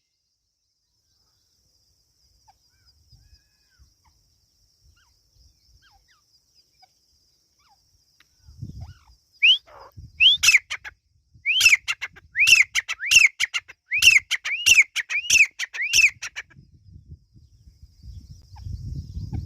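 Teetar (francolin) calling: two short rising notes, then a quick run of about eight sharp arched calls, roughly one and a half a second. A faint high steady insect trill sits under the quiet first half.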